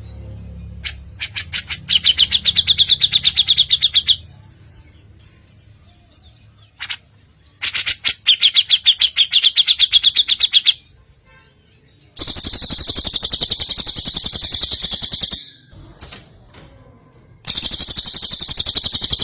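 Recorded birdsong of cucak jenggot and cililin for songbird training: four rapid trills of about three seconds each. The first two are lower, with a steady note running through them, and the last two are higher and denser.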